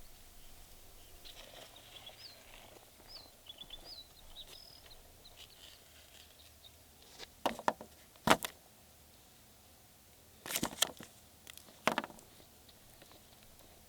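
A bird gives a few short high chirps in the first several seconds. Then come several sharp clicks and knocks, two or three close together each time, the loudest about eight and eleven seconds in.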